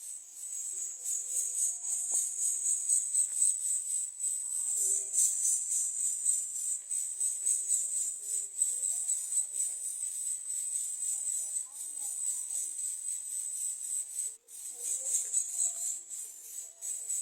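A steady, high-pitched insect chorus of crickets or cicadas, with faint short bird calls low underneath.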